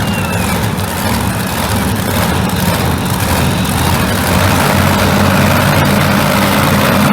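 Monster truck engine running loud and steady, getting a little louder about halfway through.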